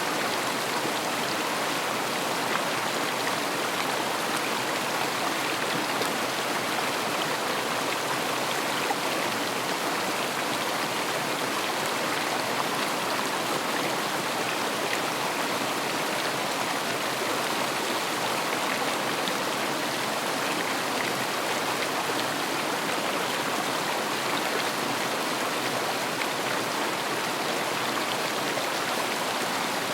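River water rushing and splashing over stones, a steady flowing noise with scattered small splashes.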